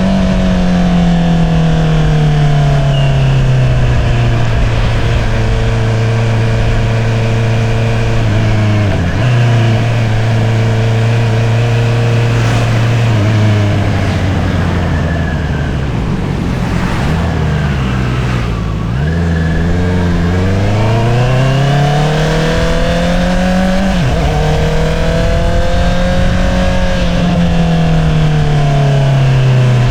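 2022 Honda CBR650R inline-four engine through an Akrapovič single-outlet exhaust while riding: the engine note falls and settles at a steady cruise, dips briefly, drops through a few quick changes around the middle, then climbs under acceleration with a sudden drop at an upshift about 24 seconds in before easing off again.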